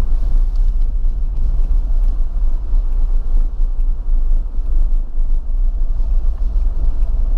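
A car driving on snow-covered streets, heard from inside the cabin: a steady low rumble of engine and tyres.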